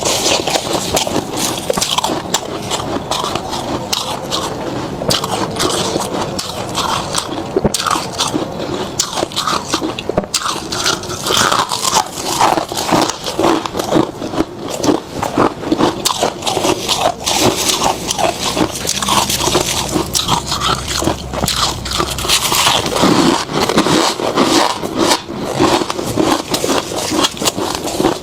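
Close-miked crunching of freezer frost being bitten and chewed, a dense run of crackly crunches and scrapes.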